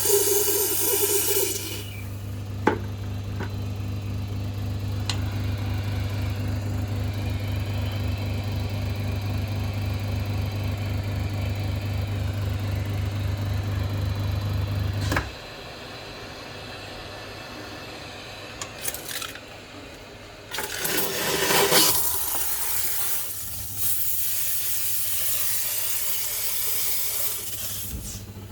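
Steam cleaner at work: a steady low buzz with a fast even pulse, like its pump, runs for about the first half and cuts off abruptly. In the second half, after a short loud burst, a long even hiss of steam jets out.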